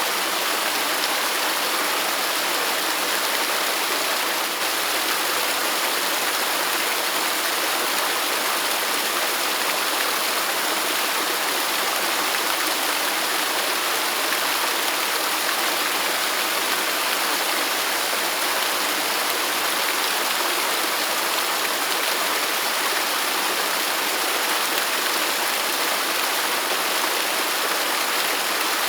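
Waterfall running in a steady, even rush of falling water.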